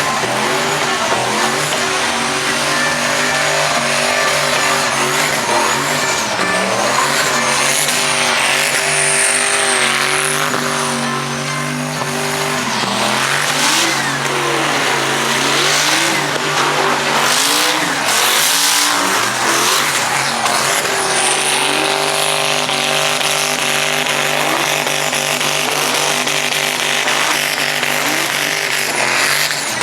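Truck engines revving hard in a burnout pit, pitch rising and falling repeatedly, with tyres spinning and squealing against the pavement.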